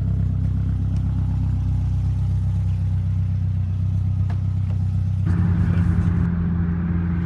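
Subaru Impreza WRX's custom-built EJ257 flat-four engine, turbocharged by a BorgWarner S300SXE, running steadily. About five seconds in its note jumps to a higher pitch and grows louder.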